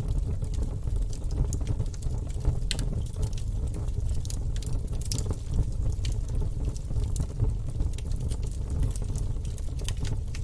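Wood fire burning in a fireplace: a steady low rush of flame with frequent sharp crackles and pops from the logs.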